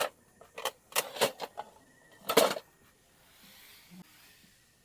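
An egg being tapped and cracked against a bowl: a handful of sharp taps and clicks over the first two and a half seconds, the loudest near the end of them.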